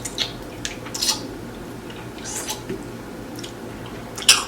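Squeeze bottle of spicy sauce being squirted onto tacos: a few short, wet, hissing squirts and sputters, the loudest near the end.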